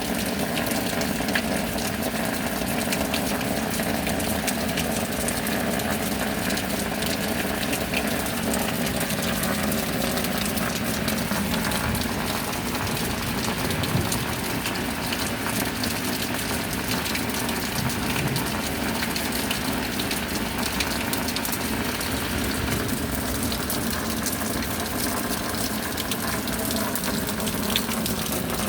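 Steady downpour of rain, an even rushing hiss with no breaks, and a faint steady hum underneath.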